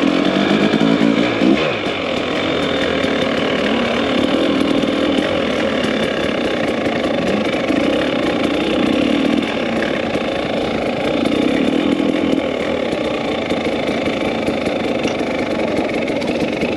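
Two-stroke dirt bike engines running under way, the engine note rising and falling with the throttle.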